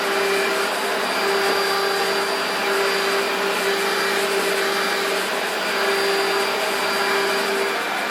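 Electrolux Z1501 Contour upright vacuum cleaner with its 1300 W motor running steadily, a rushing airflow with a low hum note that drops in and out several times.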